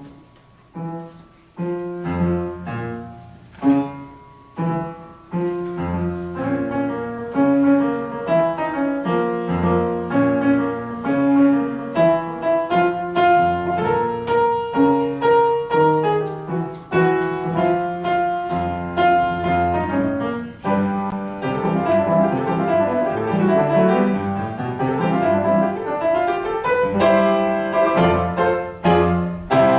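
Piano music: a few separate chords with gaps between them at first, then steady continuous playing. About two-thirds of the way through it turns to quick rippling figures.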